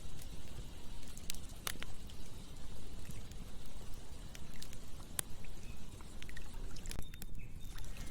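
Campfire crackling: irregular sharp pops and snaps, about one or two a second, over a steady low rushing noise.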